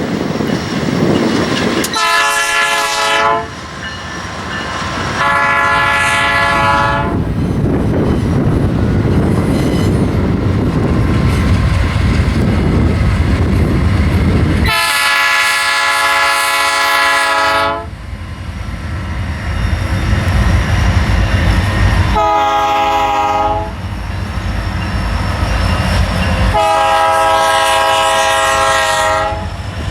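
Freight-train diesel locomotive air horn sounding five separate blasts, the third the longest at about three seconds, over the steady running noise of the locomotives and rolling cars.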